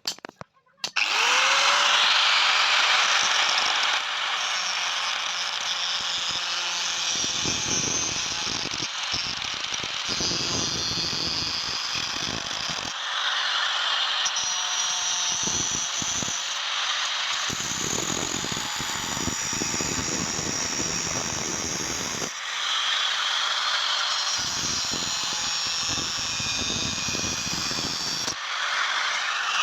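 An electric power tool starts up about a second in, its motor note rising and then holding steady as it runs on the iron tawa. A rough chatter comes and goes repeatedly as the tool bears on the metal.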